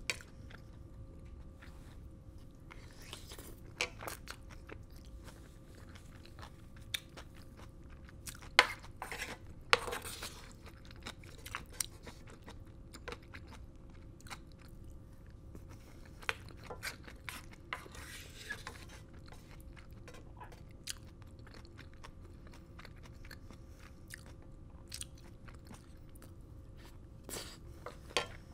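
Close-miked chewing of black bean sauce fried rice: many small wet mouth clicks and crunches. A spoon scraping and knocking against the pan adds a few sharper sounds, loudest about eight to ten seconds in and again near the end.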